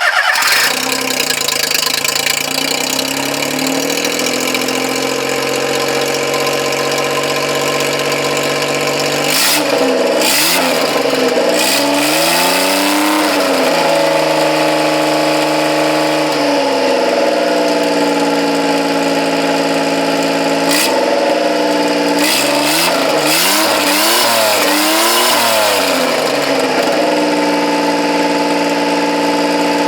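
Daihatsu Hijet engine breathing through an Allis-Chalmers tractor exhaust, starting up and idling. It is revved up and down in two spells, a third of the way in and again past two-thirds, then settles into a steady, slightly faster idle near the end.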